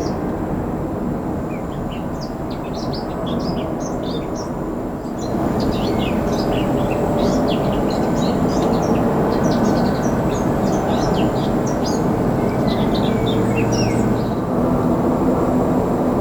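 Steady rumble of an Airbus A350-900's Rolls-Royce Trent XWB jet engines on approach, growing louder about five seconds in, with many small birds chirping over it.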